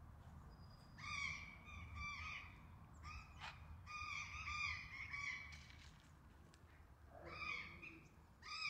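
Harsh, cawing bird calls in several short runs, with a low steady rumble underneath.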